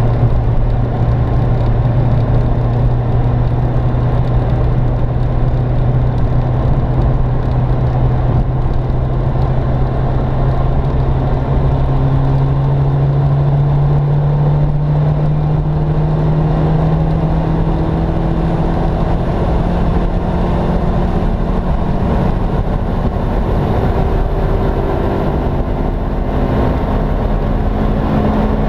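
Turbocharged four-cylinder engine of an Opel Kadett E (Vauxhall Astra Mk2) running steadily under load. Its pitch climbs slowly and evenly the whole time as the car gains speed.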